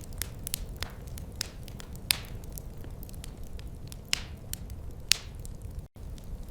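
Wood fire crackling: irregular sharp pops and snaps over a steady low rumble, with a few louder pops about two, four and five seconds in. The sound cuts out for an instant near the end.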